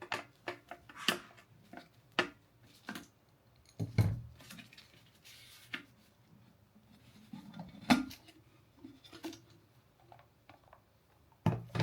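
Small clicks, scrapes and knocks of a screwdriver and plastic parts as an electric kettle's base is unscrewed and opened up to reach its switch. Two sharper knocks stand out, about four and eight seconds in.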